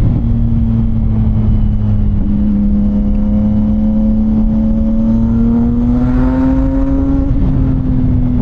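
CFMOTO 675NK's inline-three engine running at low, fairly steady revs through a titanium full-system exhaust, its pitch rising gently from about five seconds in and easing off again before the end.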